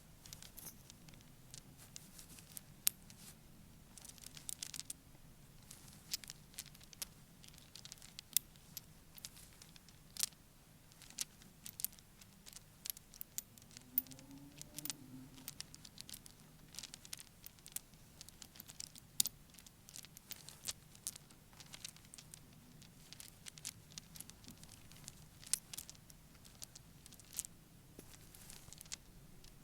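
Fake nails tapping and clicking on objects in quick, irregular taps, several a second.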